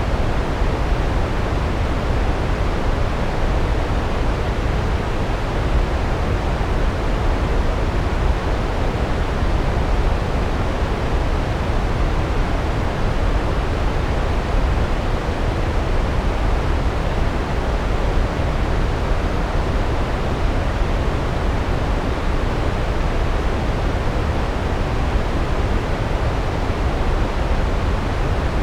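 Large waterfall: a steady, even rush of falling water on rocks, deepest and heaviest in the low end, with no changes or breaks.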